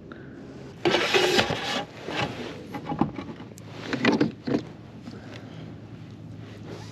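A few short scraping and rubbing noises of gear being handled on a kayak. The longest comes about a second in, with smaller ones near two and three seconds and a pair around four seconds.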